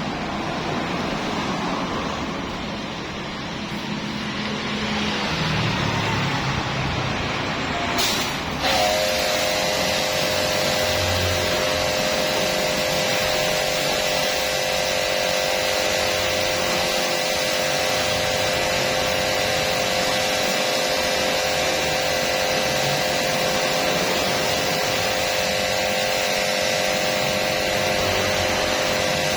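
A steady rushing hiss, then about eight seconds in a motor starts with a click and runs on with a steady, even hum over the hiss.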